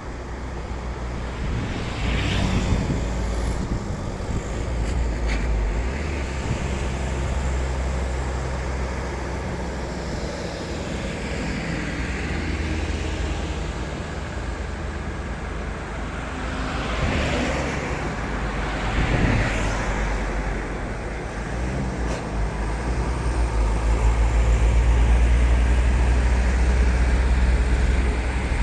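Heavy diesel truck engine pulling up a hill under load, its low drone shifting in pitch, with road noise. There are brief hissing bursts a few seconds in and again about two-thirds through, and the engine grows louder near the end.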